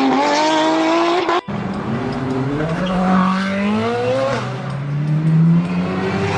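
Car engines revving hard in a car-chase sound design, their pitch sweeping up and down as they accelerate and shift. The sound breaks off for an instant about a second and a half in, then engines climb in pitch again.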